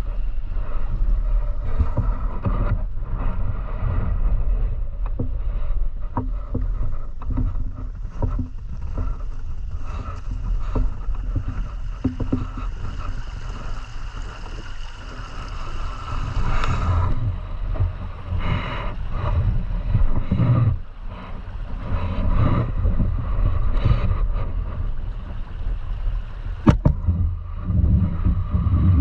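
River water rushing, a steady low rumble with scattered small knocks and one sharp knock near the end.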